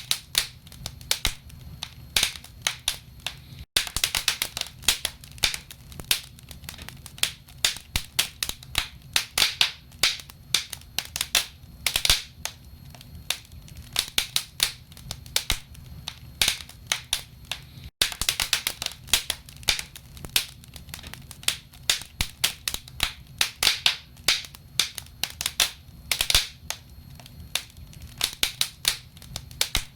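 Logs burning in a fireplace, crackling with dense, irregular sharp pops over a steady low rumble. The sound cuts out for an instant twice.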